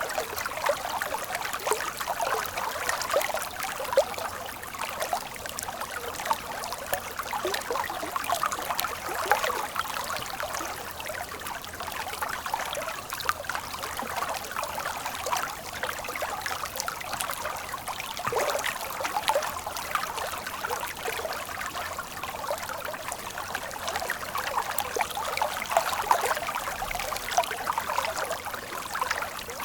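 Running water of a stream flowing and trickling, a steady babble with many small splashes flickering through it.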